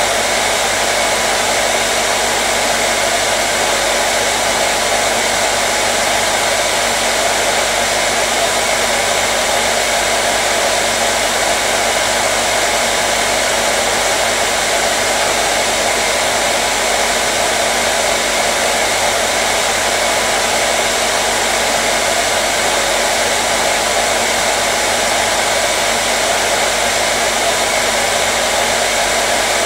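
Hair dryer running steadily: an even, unbroken whoosh of blown air with a faint motor hum.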